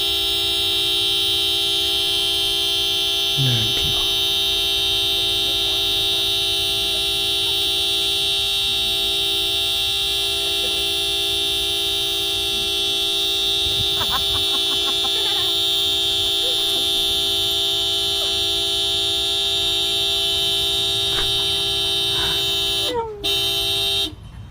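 A single horn-like tone held at one unchanging pitch and steady loudness, cutting off abruptly about a second before the end.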